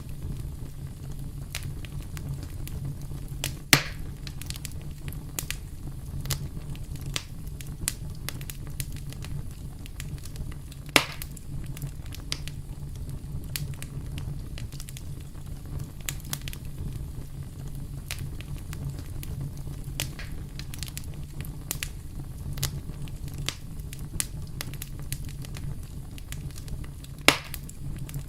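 Campfire burning: a steady low rumble of flames with frequent small crackles and three louder sharp pops, at about four, eleven and twenty-seven seconds in.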